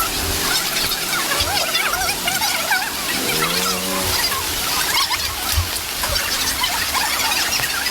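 Many small animals chirping: short, wavering high calls overlapping throughout, with one lower pitched call a little after three seconds.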